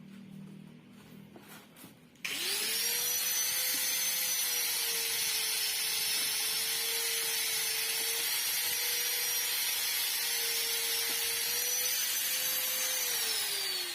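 An electric power tool's motor starts abruptly about two seconds in and runs at high speed with a steady whine and hiss. The pitch dips slightly now and then as if under load, then winds down near the end.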